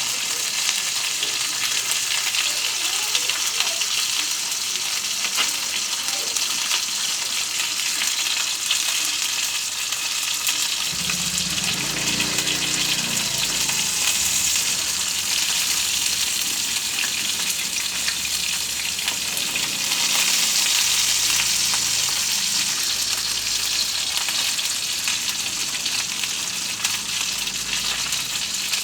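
Whole tilapia frying in hot oil in a pan, a steady loud sizzle and crackle.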